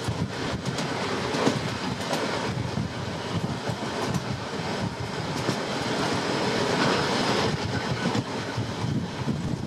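Passenger train running along the track: a steady rumble with irregular clacks of the wheels.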